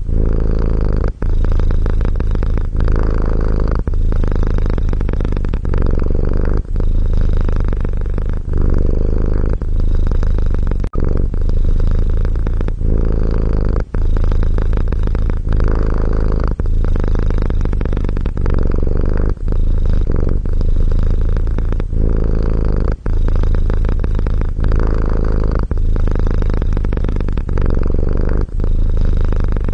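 Domestic cat purring close to the microphone: a low, continuous rumble that breaks briefly about every one and a half seconds as the cat switches between breathing in and out.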